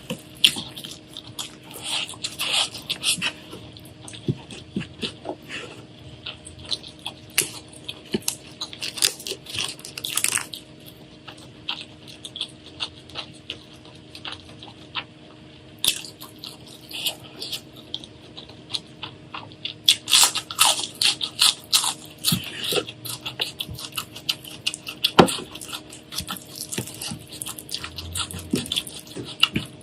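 Crunchy food being bitten and chewed close to the microphone: irregular clusters of sharp crackling crunches with short pauses between them, over a faint steady hum.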